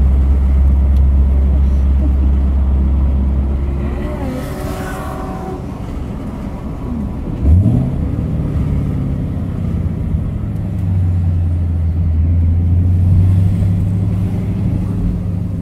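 Car engine running at low speed, heard from inside the cabin. A steady low hum drops away about four seconds in, a short rising rev comes about seven and a half seconds in, and then it settles back into a steady hum.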